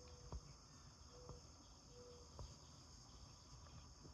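Faint, steady, high-pitched chorus of crickets, with three soft clicks about a second apart.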